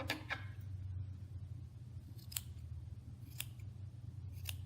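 Scissors snipping through yarn strands while a yarn bird is trimmed: a few short, sharp snips, two close together near the start and then single ones about a second apart, over a steady low hum.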